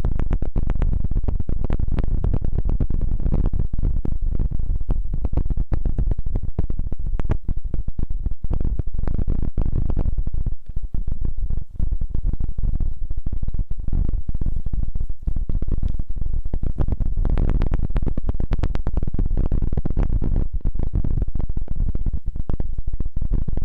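Close-miked ASMR rubbing and scratching right on the microphone: a dense, continuous crackle of tiny clicks over a heavy low rumble.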